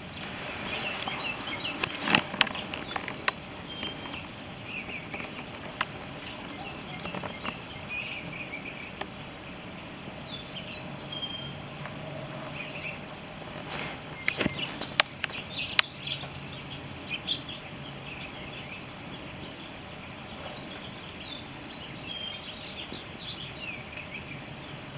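Birds chirping in short, quick phrases that come again every few seconds. Several sharp clicks sound about two seconds in and again around fourteen to sixteen seconds in. A faint low hum joins about halfway through.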